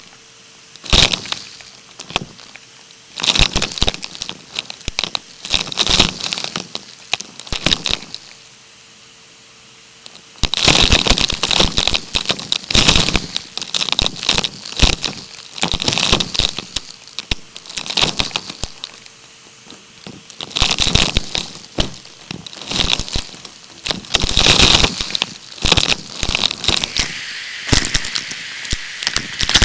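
Debris crackling and rattling as it is sucked through a vacuum cleaner's clear tube, in repeated bursts of a second or two with short pauses between.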